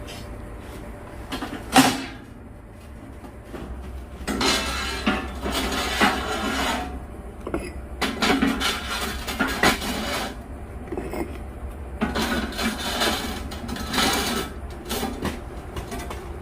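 Parts of a steel wood-burning stove being handled and fitted by hand: a sharp knock about two seconds in, then several stretches of scraping and rattling.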